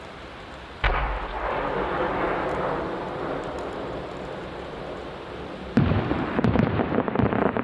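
Fireworks: an aerial shell bursts with a sudden loud boom about a second in, followed by a long fading noise. Near the end a rapid, irregular barrage of many small bangs and crackles begins.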